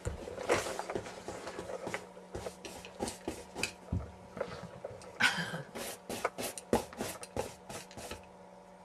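Irregular clicks, taps and scuffles from a black dachshund puppy moving about, over a steady low hum. The clicks stop shortly before the end.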